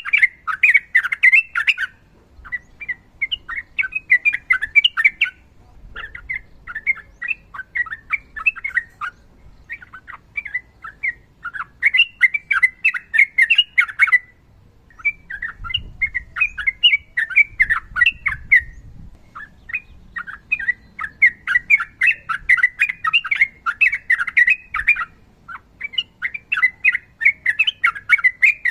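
Yellow-vented bulbul (trucukan) singing long, rapid chattering phrases of quick notes. The phrases run about one to three seconds each, with short pauses between them.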